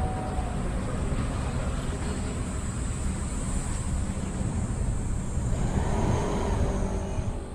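Yamaha Majesty S scooter running steadily while being ridden, its engine note mixed with road and wind noise.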